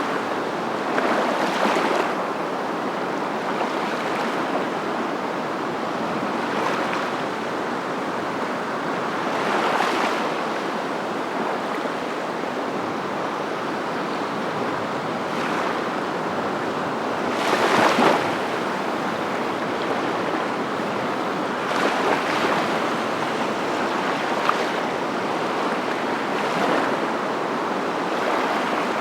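Steady rushing noise of water that swells every few seconds, the loudest swell coming about 18 seconds in.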